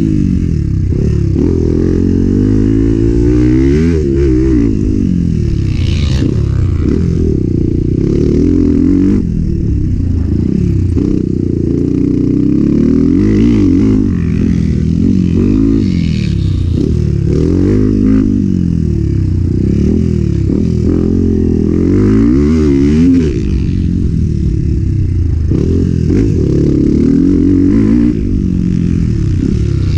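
Enduro motorcycle engine revving up and down over and over as the bike is ridden hard over rough terrain, with clattering from the machine. The engine sound is heavy in the low end and muffled in the highs.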